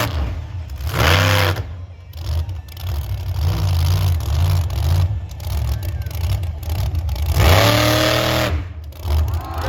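Monster truck engine running with a deep, steady low note, revved hard twice: briefly about a second in, and longer near the end, rising and falling in pitch.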